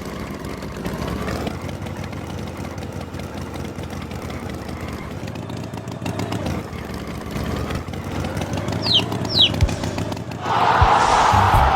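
Cartoon tractor engine running steadily. Near the end come two quick falling chirps, then a louder rushing noise sets in shortly before the end.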